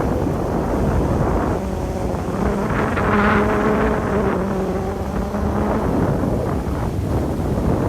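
Boat engine running on a Venice water bus, with wind buffeting the microphone. A pitched engine drone swells about two seconds in and fades out at about six seconds.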